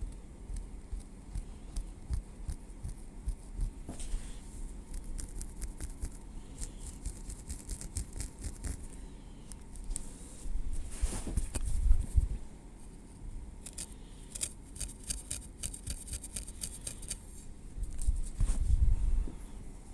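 Tweezers clicking and scraping through hair on the scalp, in soft scattered ticks with a quick run of clicks past the middle. Two louder low bumps, about eleven seconds in and near the end, come from handling.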